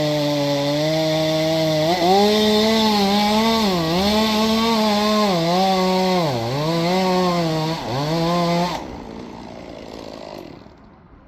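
Two-stroke chainsaw running at high speed through wood, its engine pitch dipping again and again as the chain loads up in the cut. It cuts off suddenly near the end.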